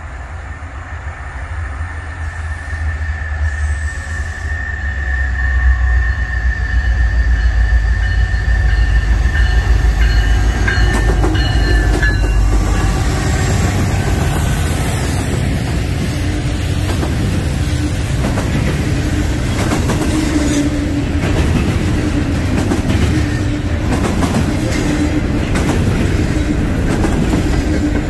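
Norfolk Southern double-stack intermodal freight train passing close by: its diesel locomotives rumble, growing louder over the first six seconds as they approach and go past. Then the loaded container cars roll by steadily, wheels clacking over the rail joints.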